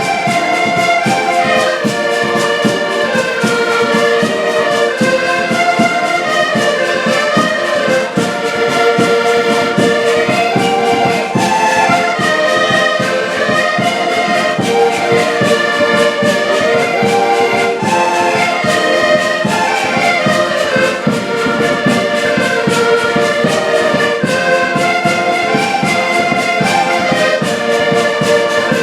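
A live band playing upbeat music with a steady beat and a melody line over it.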